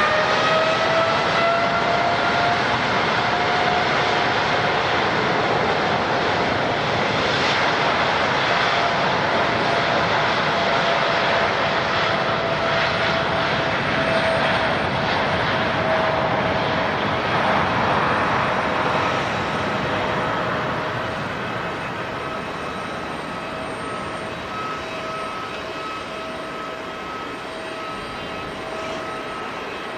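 Airliner engines climbing to a higher-pitched whine over the first couple of seconds, then a steady loud rush with a held whine that slowly fades over the last third.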